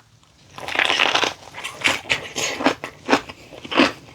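Mouth chewing a cabbage roll, with wet, uneven chewing and mouth noises starting about half a second in.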